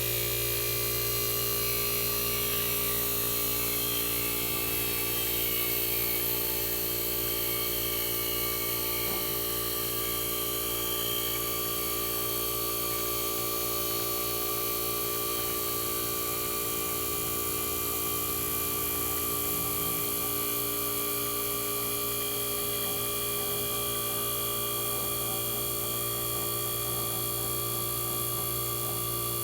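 The Tecumseh AJM reciprocating compressor of a 1965 Fedders Weather Wheel air conditioner running steadily after startup: an even hum with several fixed tones.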